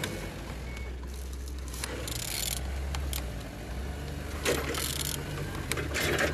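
Used engine (code 1X184) being turned over by hand with a wrench: a few short scraping, ratcheting strokes about every second or two over a steady low hum. The engine turns freely, not seized.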